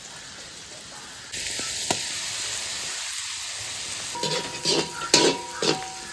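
Onions sizzling in hot oil, the sizzle jumping up suddenly just over a second in. From about four seconds in, a ladle stirs and scrapes the pan in repeated strokes, roughly two a second, with a ringing tone.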